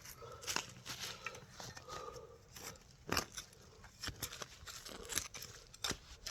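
Hand digging in stony soil with a digging tool: scattered scrapes, crunches and sharp clicks as the blade cuts dirt and strikes stones or glass, the sharpest about three seconds in. Faint short wavering tones recur about once a second beneath the digging.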